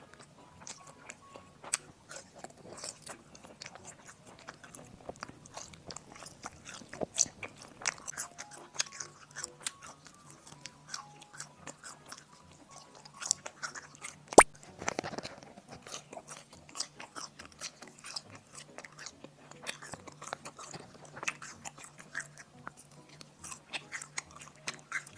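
Close-up chewing and biting of latiao, Chinese spicy gluten strips: many small wet mouth clicks and bites throughout, with one sharp, louder click about halfway through.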